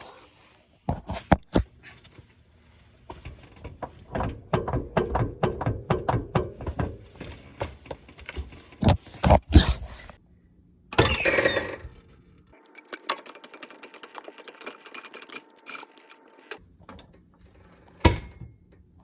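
Suspension clicking and knocking: an irregular run of sharp knocks and clicks, at times in quick succession, with a short louder burst of noise about eleven seconds in and a last knock near the end. It is an unexplained noise that the owner cannot trace.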